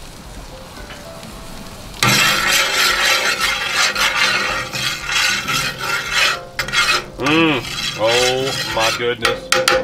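Butter, minced garlic and diced jalapeño sizzling in a seasoned steel paella pan, stirred with a metal spoon. The sizzle starts loud and suddenly about two seconds in and keeps going.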